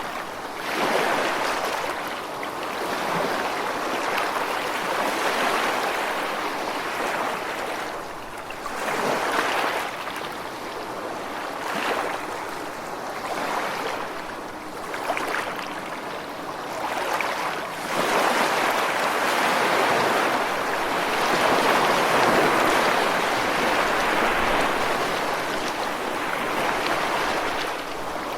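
Ocean waves breaking and washing on the shore, a steady rush of surf that swells and eases every few seconds, fullest in the last third.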